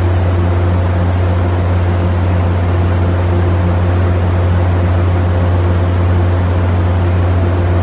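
Idling trains under the station shed: a loud, steady low hum with a few fainter steady tones above it, unchanging throughout.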